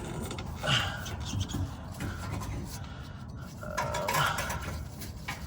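Metal scraping and clinking in short, irregular bouts as a rusted exhaust part on a pickup is worked and pried by hand to get it off.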